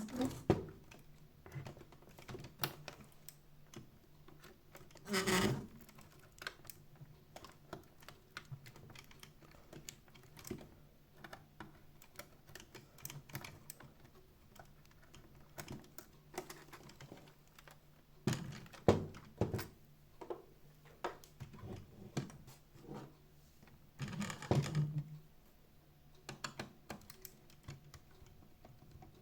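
Irregular small clicks and knocks of plastic parts and tools being handled while a robot vacuum is taken apart, with three short scraping rustles, about five, nineteen and twenty-four seconds in, over a faint steady hum.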